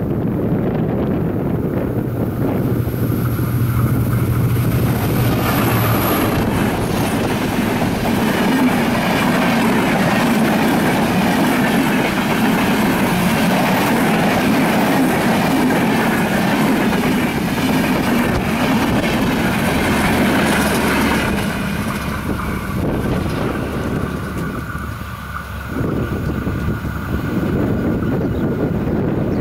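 Diesel-hauled Drutojan Express passenger train passing close by. A steady low engine hum and a thin high squeal come in the first few seconds, then the coaches' wheels run and clatter over the rails in a continuous loud rumble.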